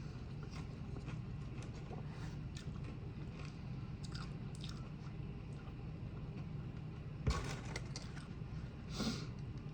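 Quiet chewing of food close to the microphone, with small wet mouth clicks and a sharper click about seven seconds in.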